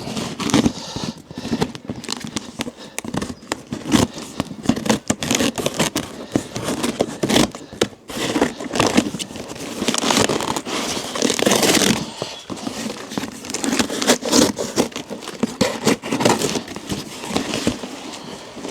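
Cardboard parcel being opened by hand: irregular crinkling, scraping and tearing of the box and its packing.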